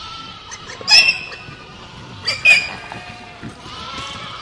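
Goats bleating: short, loud, high-pitched bleats about a second in, then a quick pair around two and a half seconds.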